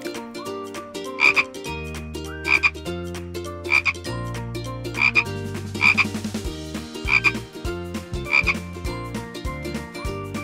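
A frog croaking: a short, bright call repeated about seven times, roughly once a second.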